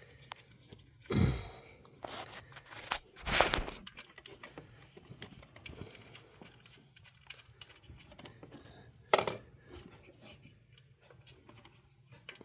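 Hands working a coil pack loose and lifting it out of a 5.7 Hemi's engine bay: scattered small clicks and rattles of plastic and bolts. There are three louder knocks, about a second in, around three seconds in and near the end.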